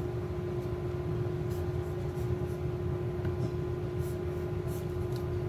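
A steady electrical hum holds one constant tone over a low rumble, with a few faint, light clicks scattered through it, typical of a computer mouse being clicked.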